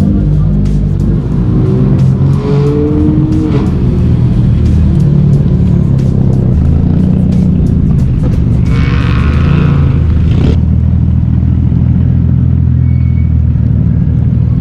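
Car engine running loudly close by, rising in pitch as it revs about two to four seconds in.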